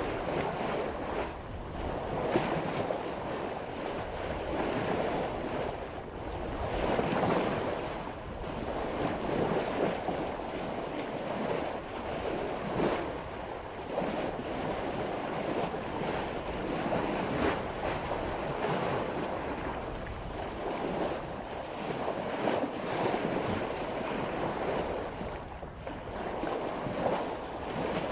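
Water rushing and splashing along the bow of a sailboat as the hull cuts through ocean waves at about 5 knots, swelling and easing every second or two, with wind buffeting the microphone.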